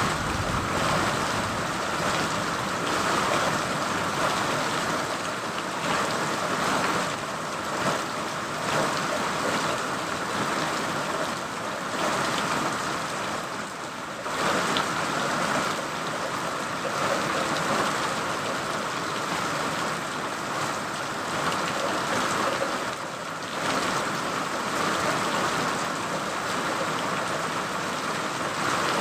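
Steady heavy rain falling, an even hiss with small swells and lulls.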